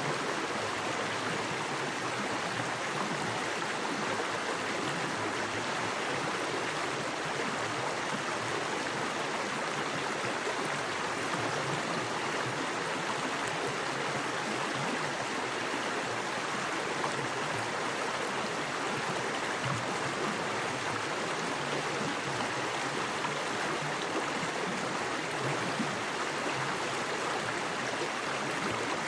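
Small woodland creek with fast water rushing over rocks: a steady, even rush with no breaks.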